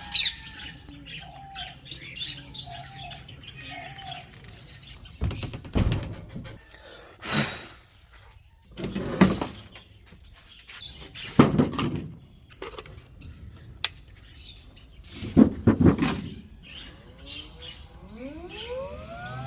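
Small cage birds chirping, with several bursts of clattering and rustling from handling in between. Near the end comes a rising whine.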